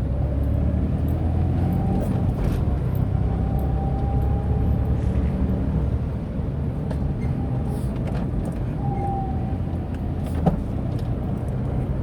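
Tata Nano's small two-cylinder engine and tyres heard from inside the cabin while driving: a steady low rumble with a faint wavering whine above it. There are scattered light ticks and one sharp click about ten seconds in.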